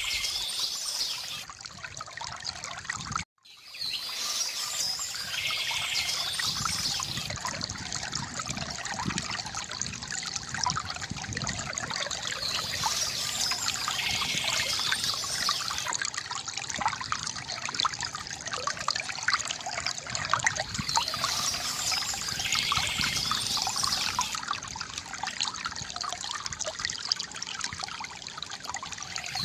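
Water trickling and splashing steadily from a bamboo fountain, with birds chirping now and then. The sound cuts out for a moment about three seconds in.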